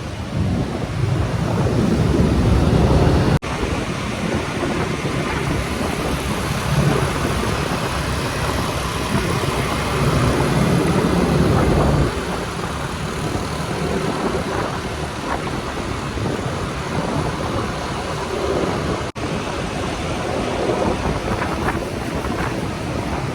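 Motorcycle riding through traffic: the engine running under a continuous rush of wind and road noise. The sound breaks off for an instant twice, about three seconds in and near the end, at cuts in the recording.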